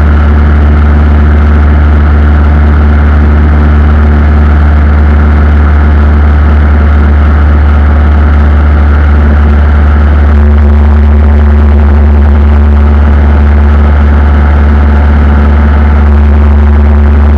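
Aircraft engine drone, steady and loud, with a deep hum and several steady tones above it that shift slightly about ten seconds in.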